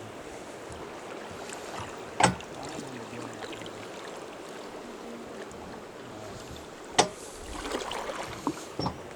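River water rushing steadily around a raft, with two sharp thumps, about two seconds in and near seven seconds in, and a few lighter knocks near the end.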